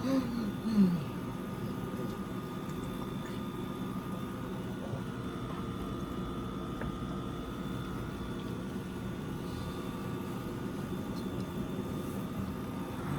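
Window air conditioners running with a steady hum and constant whine. A short pitched vocal sound rises and falls twice in the first second.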